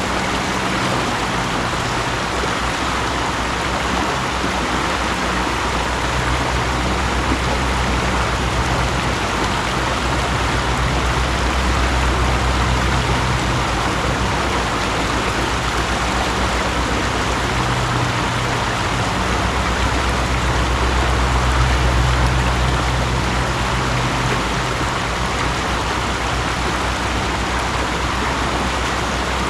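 Mountain stream running: a steady rush of flowing water, with a deeper low rumble that swells and fades twice.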